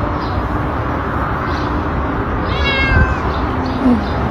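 A cat meowing once, a short call with a falling pitch about two and a half seconds in, over steady background noise.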